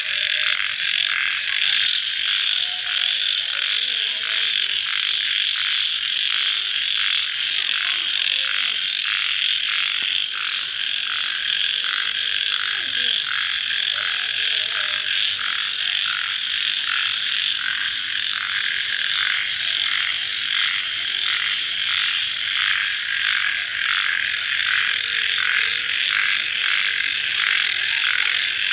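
Dense chorus of crickets calling at night, a steady, rapidly pulsing chirring that never lets up.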